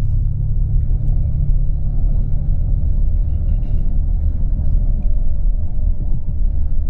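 Coach bus driving: a steady low rumble of engine and road noise heard inside the passenger cabin.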